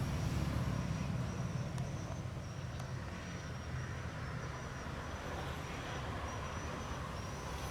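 A boat motor running steadily, a low even rumble with a rushing hiss over it.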